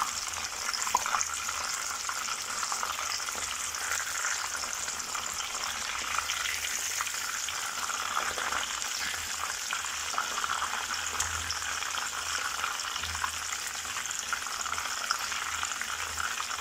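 Breaded chicken rolls shallow-frying in hot olive oil: a steady sizzle with many small crackles as the rolls are turned over in the pan with tongs.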